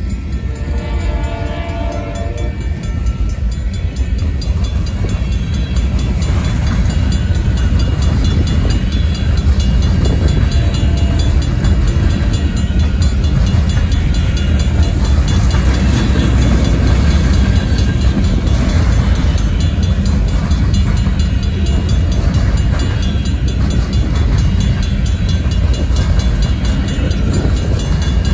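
Union Pacific covered hopper cars of a grain train rolling past close by: a steady, heavy rumble of steel wheels on rail with clickety-clack, louder from about four seconds in. The locomotive horn trails off in the first few seconds, and the crossing's Safetran mechanical bell keeps ringing under the train noise.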